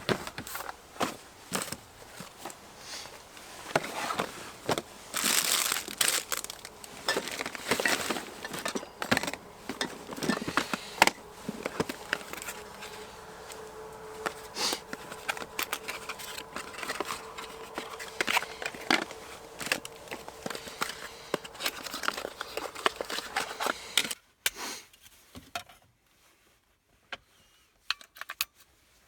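Crinkling and rustling with scattered clicks and knocks, as things are handled, and a faint steady hum through the middle; it all stops about 24 seconds in.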